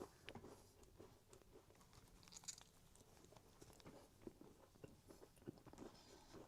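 Faint close-up chewing of cookie: irregular small smacks and crunchy clicks of a mouth eating.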